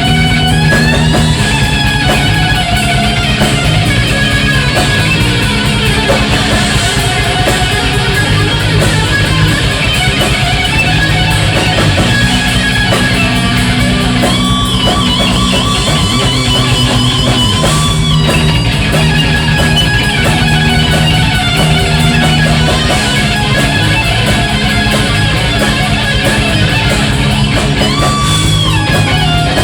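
Heavy metal band playing live in an instrumental passage without vocals: electric guitar lead lines with bends and slides over drums and bass.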